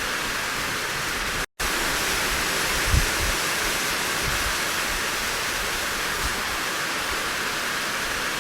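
Steady heavy rain as an even hiss, cut by a split-second dropout to silence about one and a half seconds in. A brief low thump stands out at about three seconds, with a fainter one a little later.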